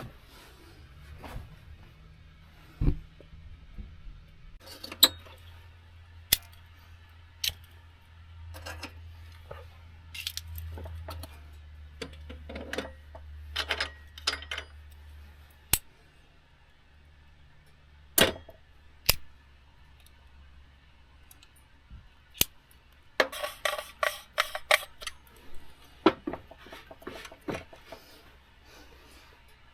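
Scattered sharp clicks, clinks and knocks of small hard objects being handled, with a quick flurry of clicks about three quarters of the way through, over a faint low hum.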